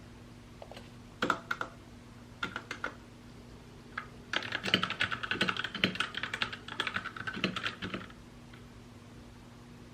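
Typing on a mechanical keyboard: a few scattered key presses, then a quick continuous run of keystrokes for about four seconds that stops about eight seconds in. A faint steady hum sits underneath.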